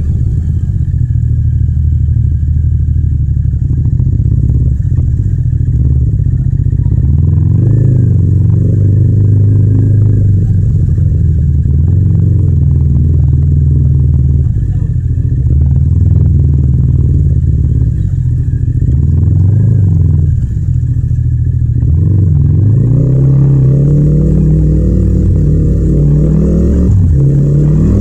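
Yamaha MT-07's parallel-twin engine running under way, its pitch rising and falling as the rider rolls on and off the throttle and shifts gears, with a series of rising revs near the end.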